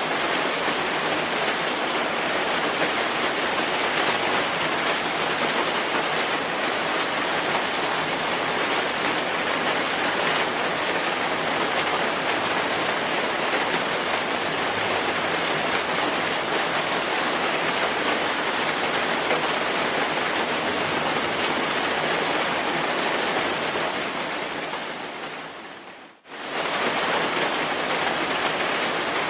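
Steady rainfall, a dense even hiss of falling rain. Near the end it fades down over about two seconds, then cuts back in abruptly at full level.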